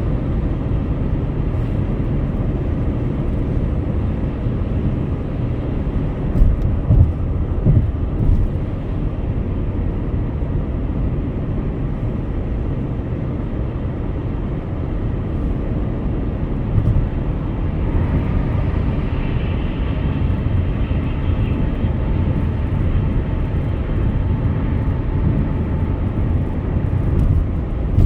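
Steady road and engine noise of a car driving on a highway. A few short bumps come about six to eight seconds in, and a faint whine joins briefly past the middle.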